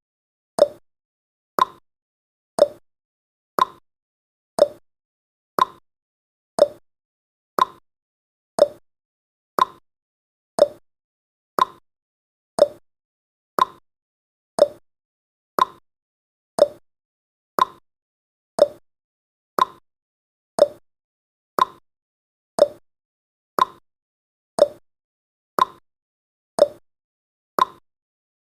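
Countdown timer's ticking sound effect: one short, sharp tick every second, perfectly even.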